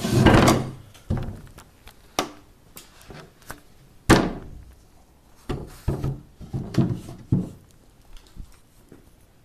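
Wooden lid of a homebuilt top bar beehive being slid off and handled: a scraping rush at the start, then a string of hollow wooden thunks and knocks, the loudest about four seconds in.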